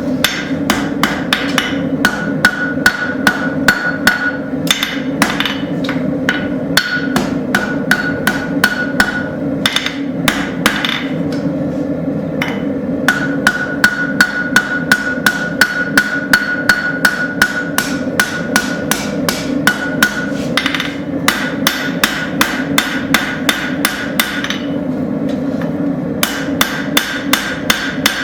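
Hand hammer striking a hot railroad spike on an anvil, drawing out the point: quick runs of blows about three to four a second with a few short pauses, each blow leaving a brief metallic ring. A steady low drone runs underneath.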